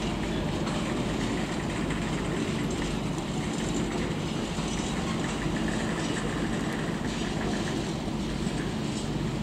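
Steady running noise of a train moving along the track, a continuous rumble with a low hum.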